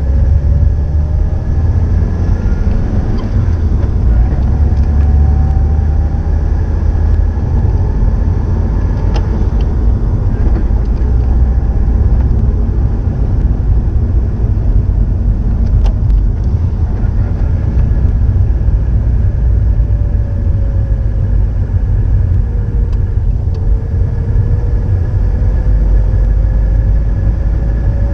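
Subaru GDB Impreza's EJ20 flat-four boxer engine sounding through an STI Genome muffler: a steady low rumble. The pitch climbs slowly over the first several seconds, sinks a little a bit past the middle, and climbs again near the end.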